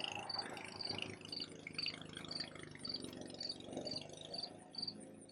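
Insects chirping in a steady rhythm, a short high chirp about twice a second, over a low steady hum.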